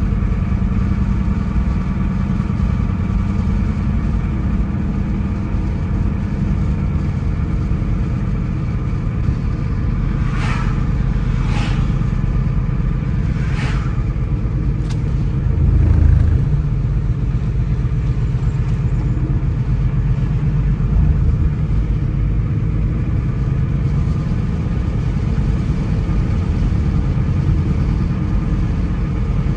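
Car driving along a road: steady engine hum and road rumble, with a few short clicks about ten to fourteen seconds in and a louder low thump about sixteen seconds in.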